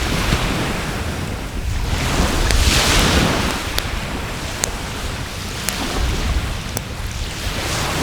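Waves washing up on the shore in slow swells, two in a row, with sharp pops and crackles from a burning wood fire every second or so.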